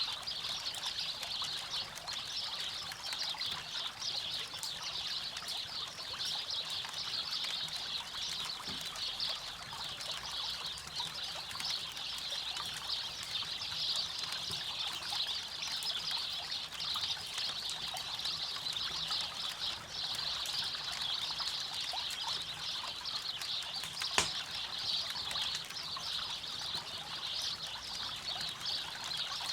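A river flowing steadily, with a campfire crackling quietly over it and one sharp pop from the fire late on.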